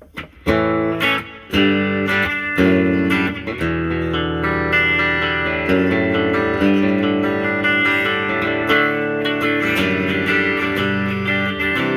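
Telecaster with a Fender Noiseless single-coil pickup played clean through a 1964 Epiphone Pacemaker 10-watt tube amp with a 10-inch Kendrick Black Frame speaker, with a reverb pedal on: a run of picked chords and notes starting about half a second in, clean with a little drive.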